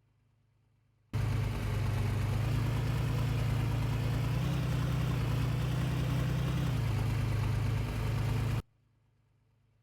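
A vehicle engine running steadily, with a constant hiss over it. It cuts in abruptly about a second in and cuts off just as abruptly about a second before the end, with near silence on either side.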